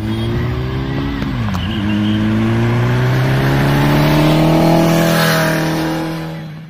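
Motorcycle engine running at highway speed with wind rushing past. About a second and a half in the engine pitch dips briefly, then climbs steadily as it accelerates, and the sound fades near the end.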